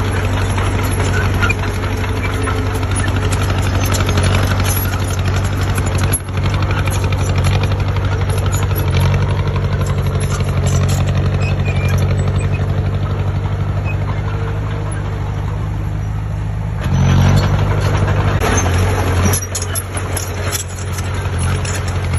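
Heavy construction machine's diesel engine running steadily, with a louder stretch about seventeen seconds in.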